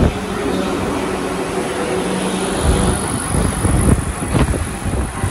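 South Western Railway train at the platform: a steady mechanical hum with two thin steady tones, turning to heavier, uneven low rumbling about halfway through, with a sharp click near the end.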